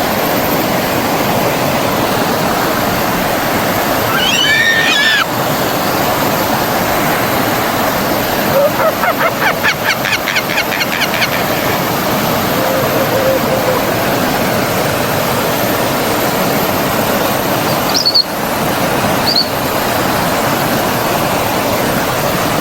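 Steady rush of flowing stream water, with birds calling over it: a short call about four seconds in, a fast trill around the middle, and two brief high chirps near the end.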